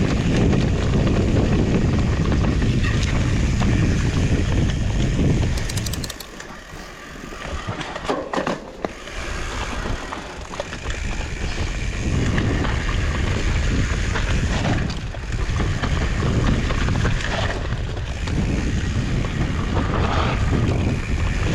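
Wind noise on the microphone over the tyre noise and rattle of a Trek Farley 7 fat bike riding a trail. The noise dips for a couple of seconds about six seconds in, with scattered clicks and knocks.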